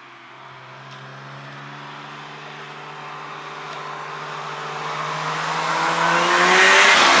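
A car approaching at speed, its engine note climbing and growing steadily louder over several seconds, then passing close by near the end with the pitch dropping as it goes past.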